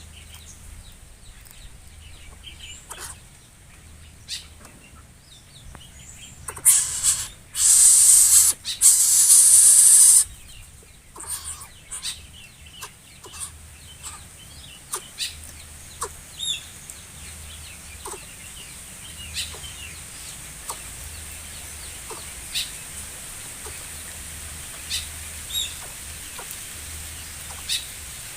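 Birds chirping with short, scattered calls over a steady outdoor background, broken for about three seconds near the middle by a loud rushing noise.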